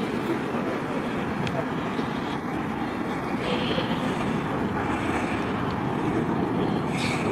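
Steady roar of jet aircraft engines with wind noise on the microphone.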